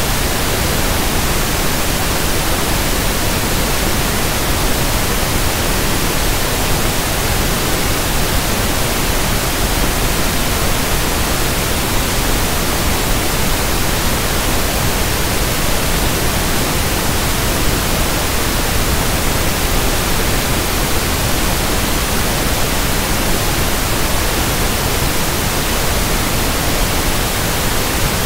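Synthesized pink noise (1/f noise): a steady hiss spread evenly across the whole range, with no change in level or texture.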